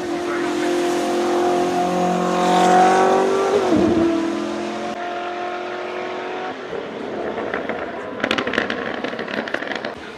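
Koenigsegg Jesko's twin-turbocharged V8 accelerating hard, its pitch rising for about three seconds, then dropping suddenly near four seconds. It then runs at a steadier pitch, with a burst of sharp crackles near the end.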